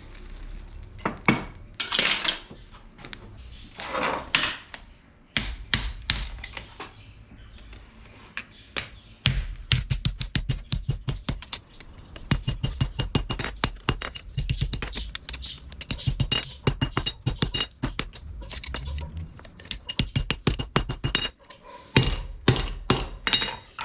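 Hammer blows on steel at the anvil while forging a knife blade, mostly in quick runs of about four strikes a second with a metallic ring. Two short noisy bursts come about two and four seconds in.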